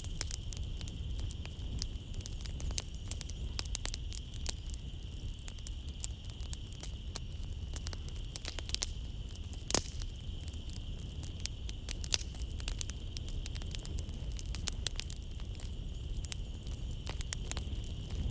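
Wood fire crackling in a fireplace: irregular snaps and pops over a low rumble, with one sharper pop a little before the halfway point. Behind it runs a steady high-pitched drone of night insects.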